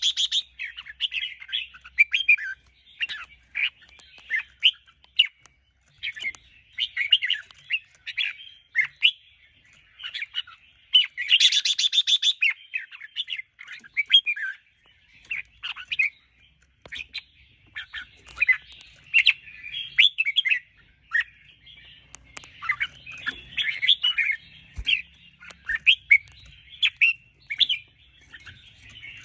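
Red-whiskered bulbuls singing in quick short chirping and whistled phrases, with a harsh buzzy rattle about eleven seconds in.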